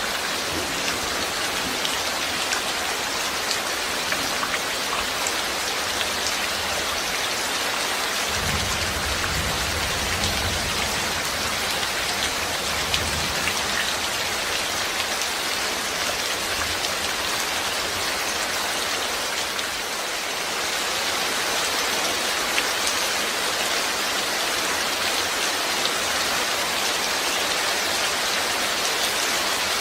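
Steady rain falling, an even dense hiss with single drops ticking through it. A low rumble joins in for a few seconds about eight seconds in.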